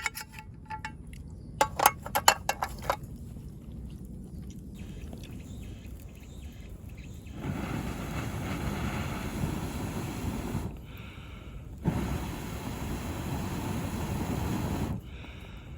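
A few sharp clinks and knocks, then a steady low outdoor rumble that cuts out twice for about a second.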